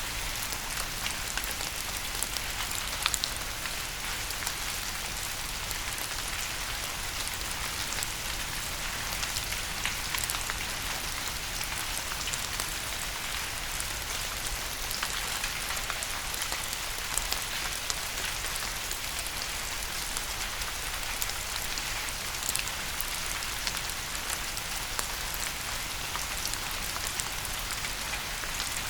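Steady rain: an even hiss with scattered sharp drops ticking on a surface.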